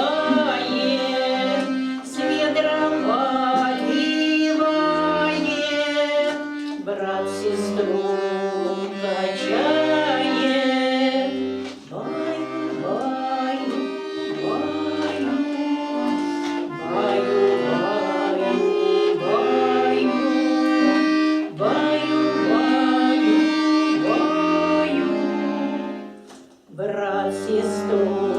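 Accordion playing the tune of a Russian folk song, with a steady repeating bass under the melody. The playing stops briefly near the end, then starts again.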